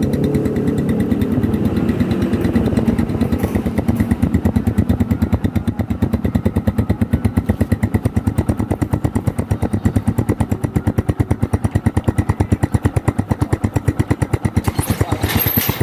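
Yamaha Scorpio's single-cylinder four-stroke engine idling through its original, unmodified exhaust in an even, regular pulse. It settles down from a higher rev in the first second or two. A short hiss comes near the end.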